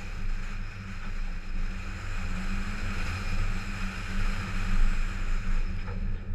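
Toyota 86's flat-four boxer engine running under load as the car is driven on a dirt track, with wind rushing over the microphone and tyre noise from the loose surface.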